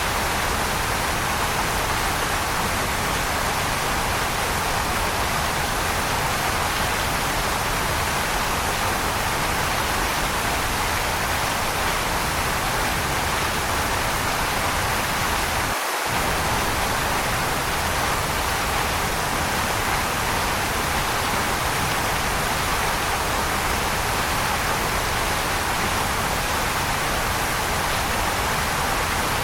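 Waterfall rushing steadily, a continuous even hiss of falling water with no change in intensity. The low rumble drops out for an instant about sixteen seconds in.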